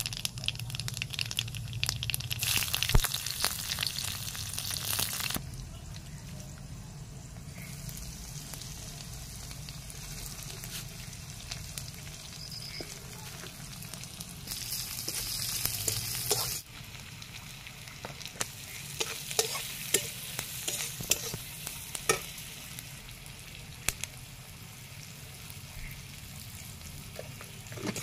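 Chopped vegetables dropped into hot oil in an aluminium kadai, sizzling loudly for a few seconds, with a second batch bursting into sizzle about halfway through. The oil keeps frying under it, and near the end a metal spatula clicks and scrapes against the pan as the food is stirred.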